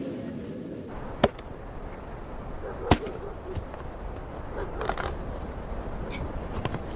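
Two sharp knocks about a second and a half apart, with a few fainter clicks later, over a steady outdoor background.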